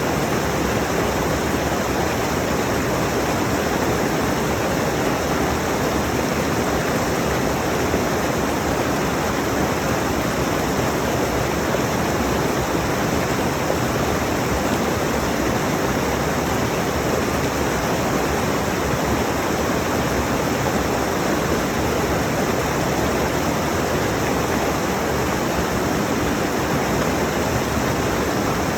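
Rushing mountain stream: water pouring over rocks in a steady, even rush with no let-up.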